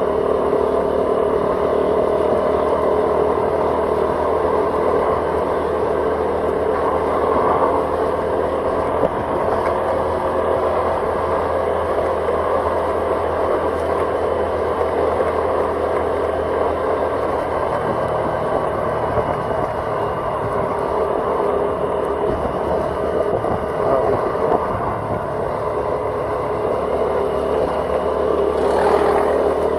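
Vehicle engine and road noise heard from on board while driving: a steady running drone, with a brief louder rush near the end.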